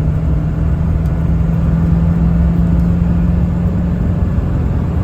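Ford F350's 7.3-litre turbo diesel V8 pulling steadily in high gear at highway speed, heard from inside the cab along with road and tyre noise. A steady low drone that creeps slightly up in pitch as the truck gathers speed.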